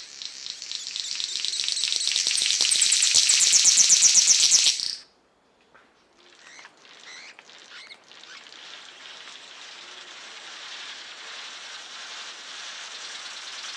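Loud, rapidly pulsing high trill of forest wildlife that grows louder for about five seconds and then stops abruptly. After a short gap and a few clicks, a softer, steady high chorus of forest birds and insects continues.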